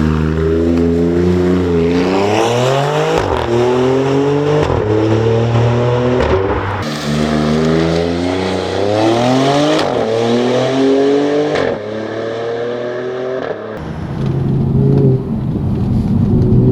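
High-performance car engine and exhaust accelerating hard through the gears: the note climbs, then drops at each upshift, about half a dozen times. Near the end it settles into a steadier, lower drone.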